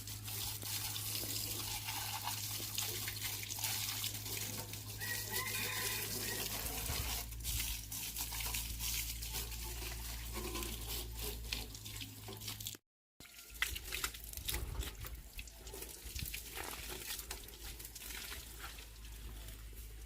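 Running, splashing water with many scattered small clicks and knocks, and a steady low hum underneath. The sound drops out briefly about two-thirds of the way through.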